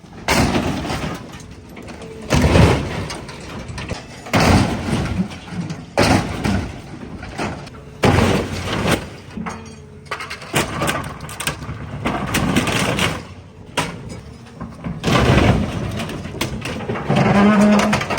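Sheet metal of scrap trucks crashing, crunching and scraping as an excavator tears into and crushes them, with a loud crash about every two seconds.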